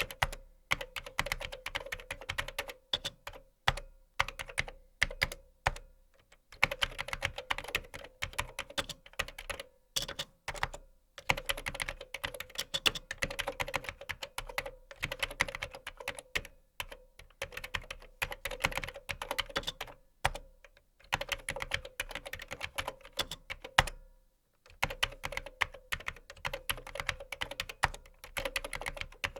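Typing on a computer keyboard: quick runs of key clicks broken now and then by pauses of about a second.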